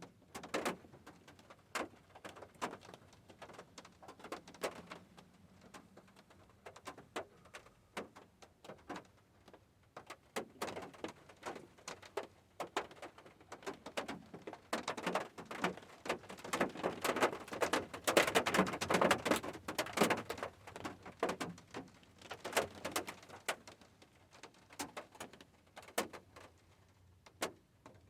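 Rain drops ticking and dripping irregularly onto a hard surface, building to a heavier, denser patter about halfway through, then thinning out again.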